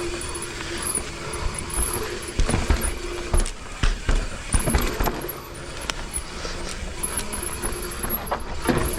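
Mountain bike descending a steep dirt trail: tyres rolling over the ground and the bike rattling, with sharp knocks over bumps between about two and five seconds in, and a steady humming tone at the start and again near the end.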